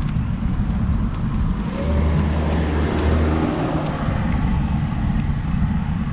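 Steady low wind rumble on the microphone during a road-bike ride, with a car passing about two seconds in, its engine note falling in pitch as it goes by.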